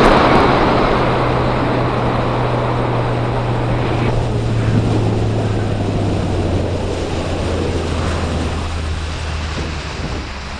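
Pontoon boat's outboard motor running under way, its low note slowly dropping as the boat eases off, with wind buffeting the microphone and water rushing past. The wind and water noise is loudest at the start and dies down toward the end.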